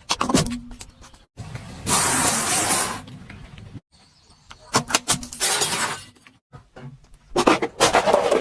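Objects cracking and crunching under a car's tyres in several short, abruptly cut clips, with clusters of sharp cracks and a second-long hiss about two seconds in.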